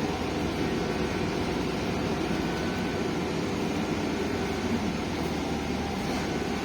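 Steady engine and road noise of a MAZ-215.069 articulated city bus, heard from inside the cabin while it drives between stops.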